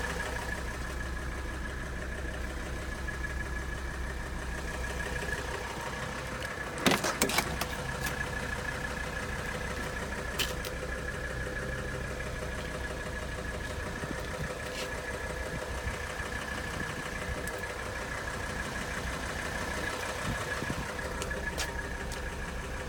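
Mercedes-Benz 300D's five-cylinder turbo diesel idling steadily, heard from the car's interior. A few sharp clicks about seven seconds in.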